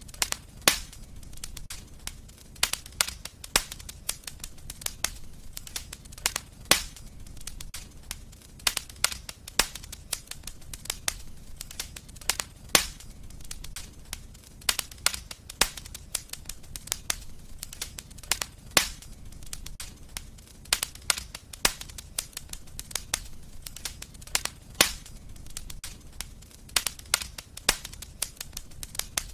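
Wood fire burning in a fireplace, crackling with many small irregular snaps over a low steady rumble, and a louder sharp pop every six seconds or so.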